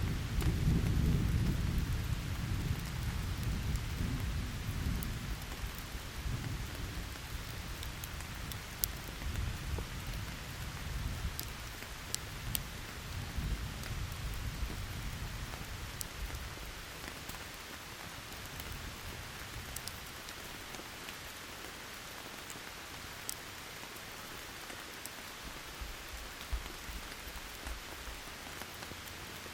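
Steady rain with a roll of thunder that rumbles loudly at first and fades away over about fifteen seconds. Scattered sharp pops of a crackling wood campfire sound over the rain.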